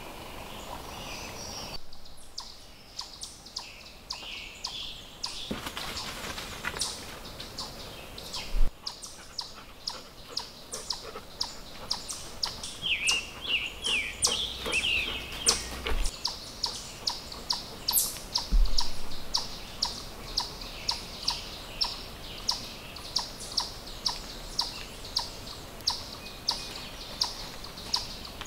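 Forest birds chirping and calling, with a cluster of quick chirps a little before the middle. Through the second half runs a steady series of short sharp clicks, about two a second.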